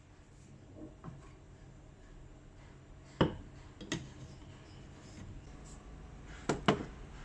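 A few sharp clicks and knocks of small hard objects being handled or set down on a surface, four in all, two of them close together near the end, over quiet room tone.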